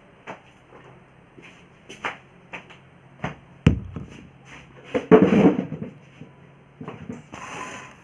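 Scattered light clicks and knocks, with one heavy thump a little past the middle and a short rustling clatter soon after.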